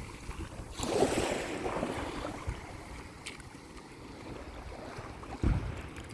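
Ocean surf washing on the shore, with wind buffeting the phone microphone: a louder rush about a second in and a low bump of wind near the end.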